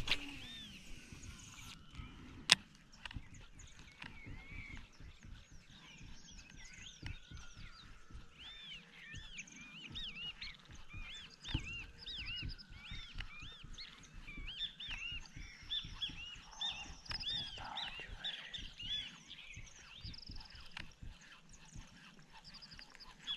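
Birds chirping in a busy chorus of short, arching calls. There is a sharp click at the start and another about two and a half seconds in.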